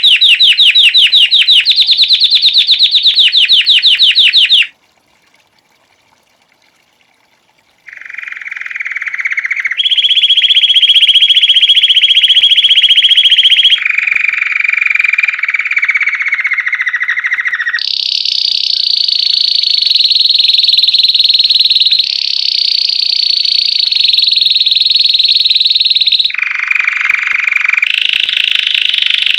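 Belgian canary singing: a fast, high trill, a pause of about three seconds, then a string of trilled phrases, each held for a few seconds at its own pitch, jumping between lower and higher tours.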